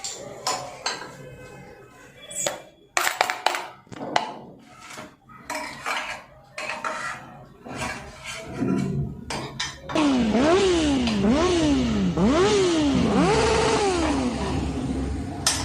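Scattered metallic clinks and knocks, like tools and bicycle parts being handled. About ten seconds in, a louder pitched wail begins and rises and falls about four times, roughly once a second.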